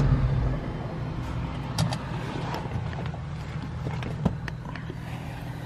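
Dodge Charger Scat Pack's 6.4-litre HEMI V8 running low and steady. Its hum drops off about half a second in, leaving a quieter rumble with a few light clicks.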